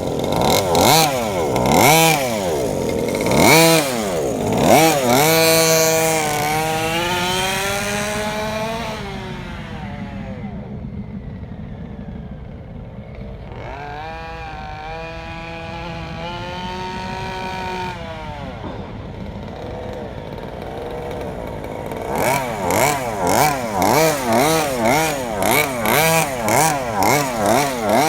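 32cc Rovan two-stroke engine of a 1/5-scale Baja 5b RC car, running during break-in. It revs up and down several times, holds steadier and quieter in the middle, then blips the throttle quickly about twice a second near the end.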